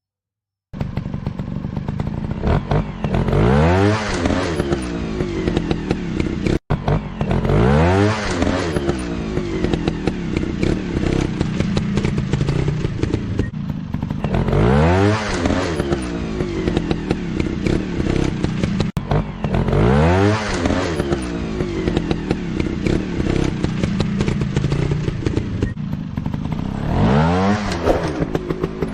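Motorcycle engine revving repeatedly: the pitch climbs and falls back about five times, every five to six seconds, over a running engine.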